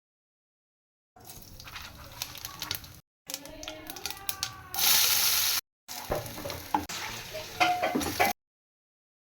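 Chickpeas frying and sizzling in a pan, with the clicks and scrapes of stirring, heard in three short edited stretches that start and stop abruptly. The sizzle turns louder and brighter for nearly a second about five seconds in.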